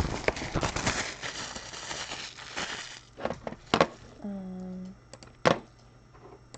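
Plastic wrapping crinkling and tearing, typical of shrink wrap being pulled off a sealed card box, for about three seconds. Then a few sharp clicks and a short low hum.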